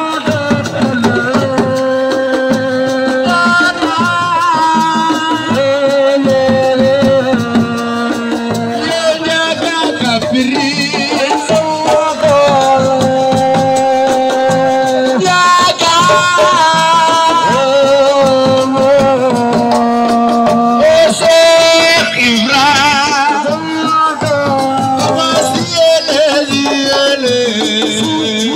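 Senegalese assiko band music: a singer's held, wavering melody over steady percussion.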